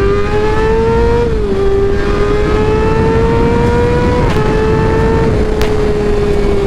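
Motorcycle engine pulling under acceleration while riding, its pitch climbing slowly and dropping sharply twice as it shifts up a gear, then holding steady at cruising speed. Wind rushes over the microphone throughout.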